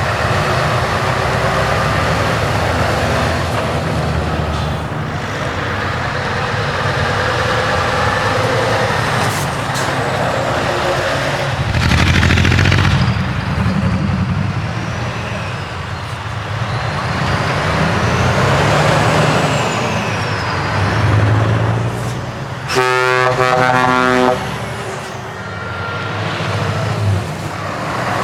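Heavy trucks with loud, open-piped diesel exhausts running and driving past. A short hiss of air comes about midway through. Near the end a truck air horn sounds once for about a second and a half.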